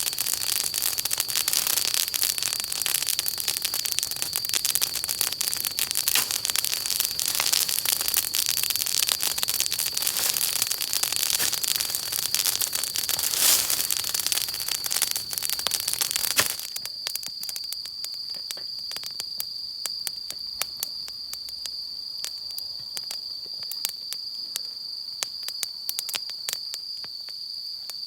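Wood fire crackling and popping over a dense hiss, which drops suddenly about sixteen seconds in, leaving sparser crackles. A steady high-pitched tone runs underneath.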